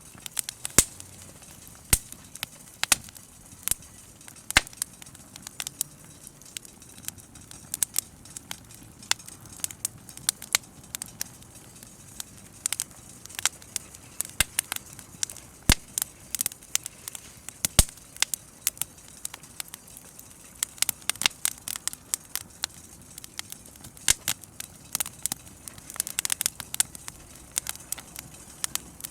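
Bonfire crackling, with irregular sharp pops over a soft steady hiss, the pops coming thicker near the end.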